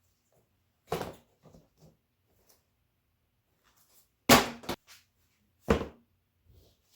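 A handful of separate short knocks and clunks from objects being handled and set down, with silence between them. The loudest is a quick double knock about four seconds in, followed by another sharp one a second later.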